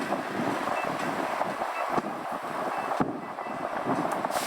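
Steady road and tyre noise of a vehicle driving, with a few sharp knocks.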